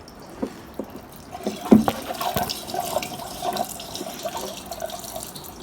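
Gas-and-oil mix being poured, a steady trickle from about halfway through, after a few light clicks and one sharper knock.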